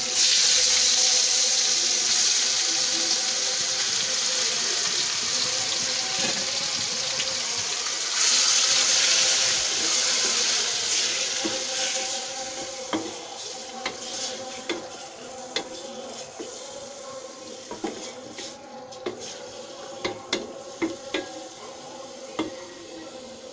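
Wet boiled taro stems hitting hot oil in an aluminium pot and sizzling loudly, the sizzle surging again about eight seconds in. It then dies down to a softer frying hiss while a wooden spoon stirs them, knocking now and then against the pot.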